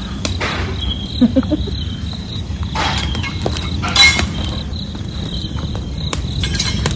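Crickets chirping steadily over a low rumble, with a few short knocks, the loudest about four seconds in.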